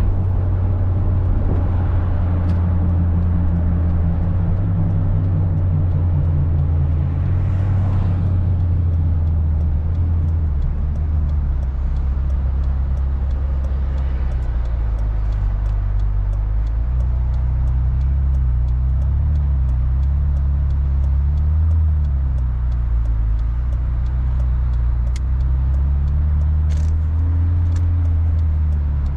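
Ferrari California's 4.3-litre V8 engine running at low revs in town driving, its pitch drifting gently up and down with light throttle.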